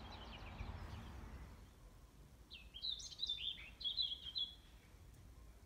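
Faint outdoor background noise, then a small bird singing a quick run of chirps for about two seconds from midway through.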